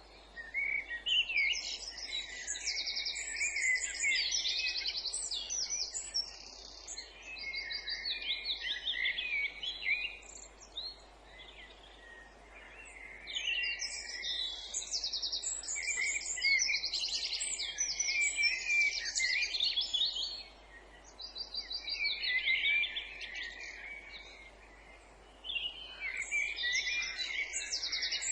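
Songbirds singing: long, rich song phrases of rapid trills and quickly repeated high notes, coming in four bursts of several seconds with short pauses between.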